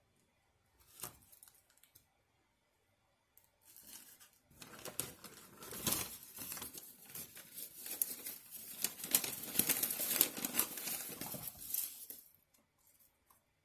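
Takeout food packaging being handled, crinkled and torn open. There is a short rustle about a second in, then a long run of crackling that is loudest near the end and stops suddenly.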